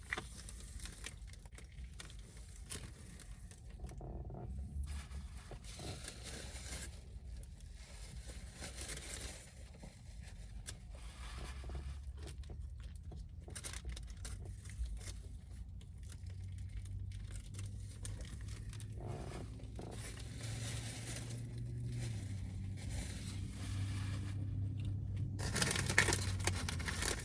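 Eating sounds: chewing, with irregular crinkling and rustling of paper food wrapping.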